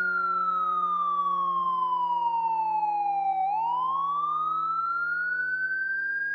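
Fire truck siren wailing: one slow sweep that falls in pitch for about three and a half seconds, turns sharply and rises again, over a steady low hum.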